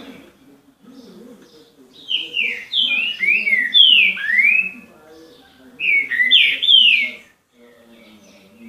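A songbird singing two loud phrases of clear, downward-slurred whistles, the second phrase shorter than the first.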